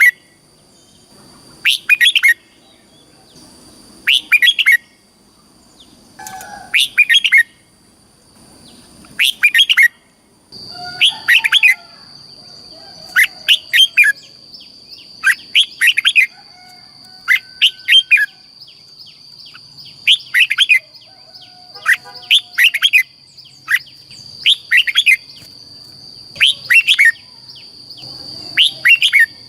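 Red-whiskered bulbul song: short phrases of several quick, bright whistled notes, repeated about every two seconds and coming closer together in the second half. A faint steady high whine runs underneath and gets louder about ten seconds in.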